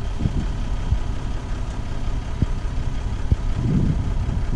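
Gravel delivery truck's engine running at idle, a steady low rumble, with a few short knocks.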